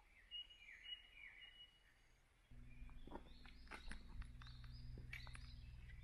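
Faint outdoor ambience with small birds chirping. About two and a half seconds in, a low steady hum sets in, with more short chirps and a few clicks over it.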